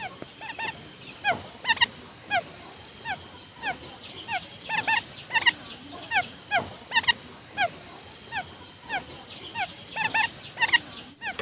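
Quail calling: a quick series of short, downward-slurred notes, about two a second, some coming in close pairs. This is the decoy call used to lure wild quail.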